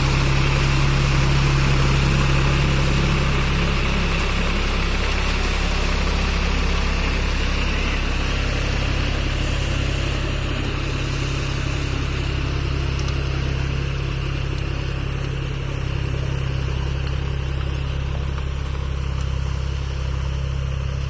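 Powertrac tractor's diesel engine running steadily at a low, even speed, easing slightly quieter over the stretch.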